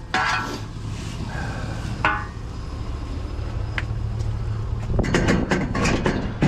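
Pieces of scrap metal clinking and rattling as they are handled, over a steady low engine hum. The clatter gets denser and louder about five seconds in.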